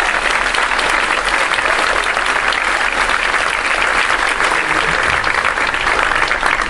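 Theatre audience applauding: dense, sustained clapping from many hands, which stops abruptly at the end.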